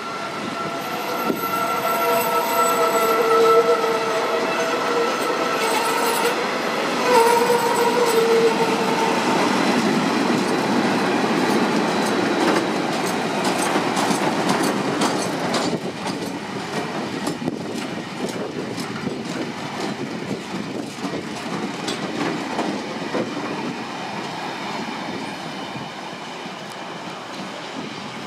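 A freight train's covered bogie wagons roll past at close range with a steady rumble and rattle. High squealing from the wheels comes over it for the first several seconds, then the clatter of wheels over rail joints. It grows quieter in the second half as the last wagons pull away.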